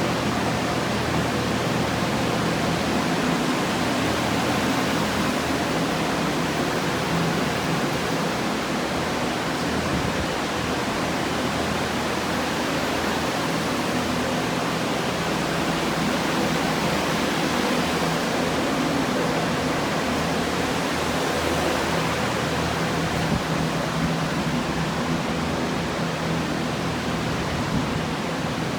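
Water-damage drying fans (air movers) running steadily: an even rush of air over a low motor hum.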